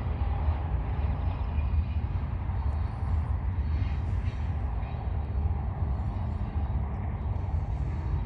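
Union Pacific freight train rolling past, a steady low rumble of wheels and cars on the rails.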